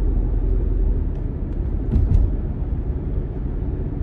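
Car cabin noise while driving: a steady low engine and road rumble, with a couple of faint clicks about two seconds in.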